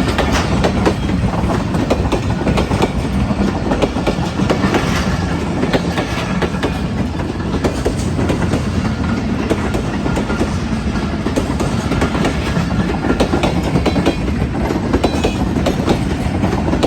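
Express train passing at speed: a steady loud rush of wheels on rail with rapid clickety-clack from the wheels running over the rail joints.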